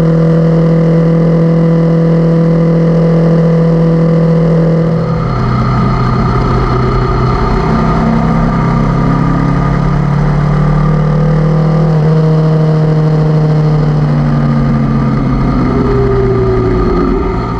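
Honda CB500X parallel-twin motorcycle engine running under way, a steady drone whose pitch steps down about five seconds in and shifts again around twelve seconds as speed and gear change.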